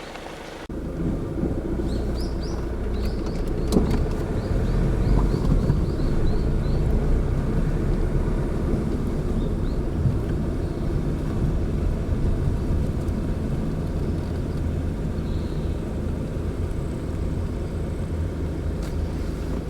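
Car driving along a road, with steady engine and tyre noise that starts abruptly just under a second in. A quick string of short high chirps sounds over it between about three and six seconds in.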